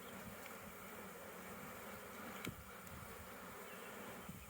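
Honeybees buzzing steadily around an opened hive during a brood-box inspection, a faint, even hum. A single sharp click sounds about two and a half seconds in.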